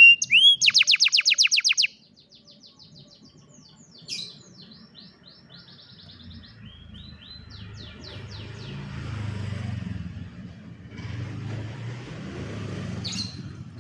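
Canary singing: a loud, fast trill of repeated sweeping notes for about the first two seconds, then quieter phrases and trills. From about halfway a low rumbling noise rises underneath, with one more short call near the end.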